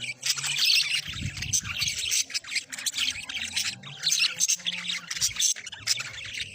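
Budgerigar chicks squawking in a continuous stream of rapid, overlapping short calls.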